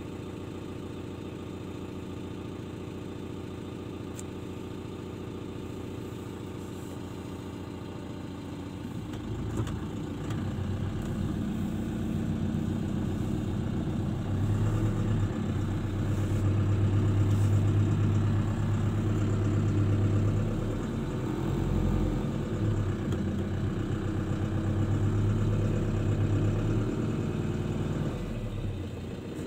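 Vehicle engine idling steadily, then running louder and harder from about ten seconds in, easing back near the end.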